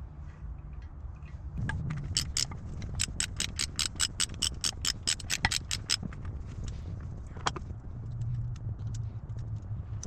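A ratchet wrench clicking rapidly and evenly, about six clicks a second, for about four seconds. Then a single metal clink.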